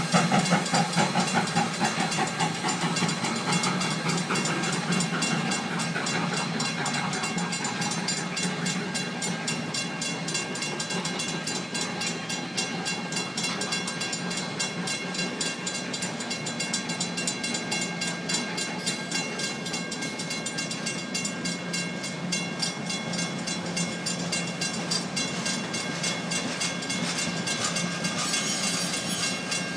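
Passenger train coaches rolling past, a steady rumble and clatter of wheels on the rails, a little louder at the start.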